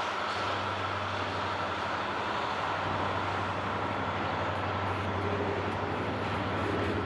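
Steady engine drone with a low hum and a higher steady whine, unchanging throughout.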